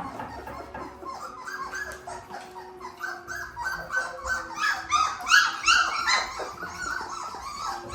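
A litter of three-week-old Labrador puppies whining and yelping, many short high cries overlapping, loudest about five seconds in. The puppies are crying with their mother away from them.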